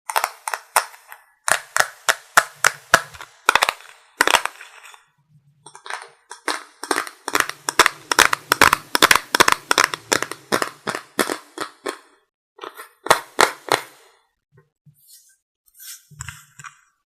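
Sharp clicks and taps of makeup items handled close to the microphone, coming in quick irregular runs of several a second with short pauses between.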